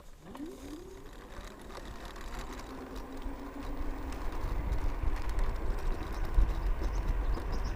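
Mercane electric scooter's motor whining as it pulls away under power: the whine rises in pitch in the first second, then holds steady, while a low rumble of wind and tyres builds as it picks up speed.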